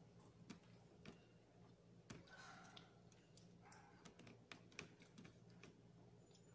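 Faint, scattered mouth clicks and smacks of a person chewing fish, with a faint steady hum beneath.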